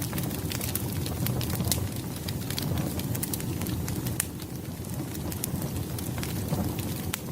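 Firewood burning: frequent small, sharp crackles and pops at an irregular pace over a steady low rush of flame.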